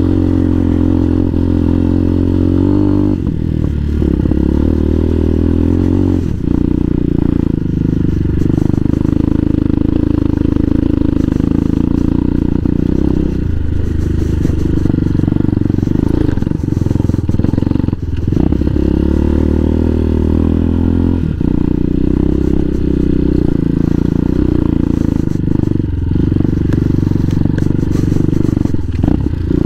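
CSC TT250 dual-sport motorcycle's single-cylinder four-stroke engine running while riding a dirt trail, heard from on the bike. The engine note steps up and down several times as the throttle and gears change.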